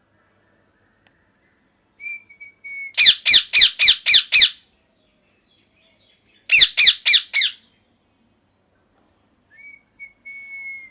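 Rose-ringed (ringneck) parakeet calling: a thin steady whistle, then a rapid run of about six loud, harsh, downward-sliding calls, a pause, and a second run of four, with a faint whistle again near the end.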